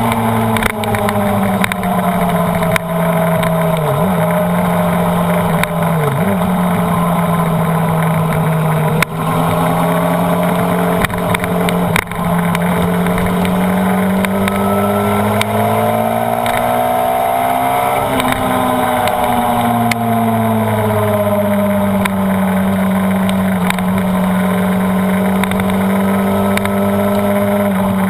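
Honda CBR929RR's inline-four engine running at steady, moderate revs while cruising on track, with wind rushing past the bike. The engine note dips briefly twice a few seconds in, then climbs gradually and falls back again about two-thirds of the way through.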